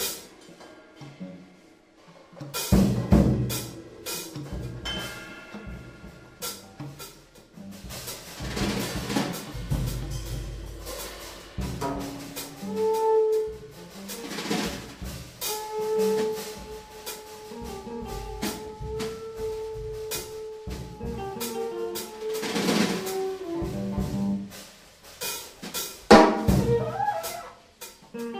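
Live improvised jazz played on drum kits: loose, irregular hits on snare, bass drum and cymbals, with rolls and rimshots, starting sparsely and getting busier after about two seconds. Through the middle a melodic instrument holds a long, steady note over the drumming.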